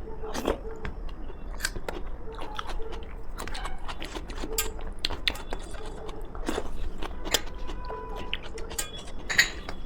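Chewing and mouth sounds of a person eating a meal, close to the microphone, with irregular wet clicks and light crunches.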